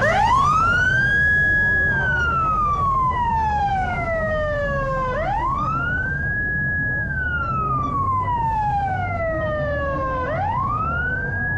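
A siren wailing in slow cycles: each one rises quickly, holds briefly at the top and then slides slowly down, repeating about every five seconds.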